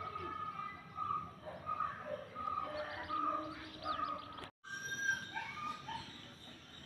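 Birds chirping and singing: a string of short whistled notes. The sound drops out for an instant about four and a half seconds in, then the birdsong carries on.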